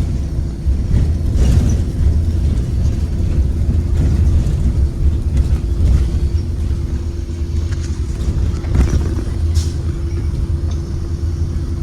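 Ride inside a 2023 Blue Bird Vision school bus with a Ford 7.3L gasoline V8: a steady low rumble of engine and road with a constant hum, and a few brief rattles from the bus body.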